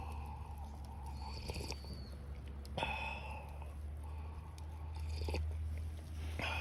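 A person chewing food, with scattered small clicks over a steady low hum.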